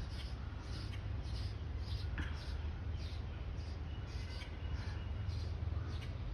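Outdoor park ambience: a steady low rumble of wind on the microphone, with a short high chirp repeating about twice a second.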